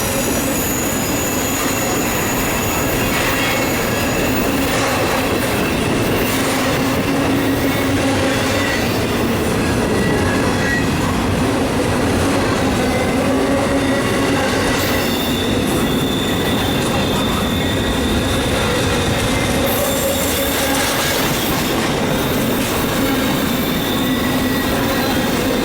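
Intermodal freight train cars rolling past: a steady, loud rumble of wheels on rail with sustained squealing tones from the wheels.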